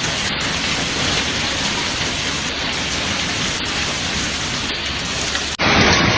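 Heavy rain and hail pouring down in a steady hiss. About five and a half seconds in it cuts abruptly to a louder rush with more low rumble.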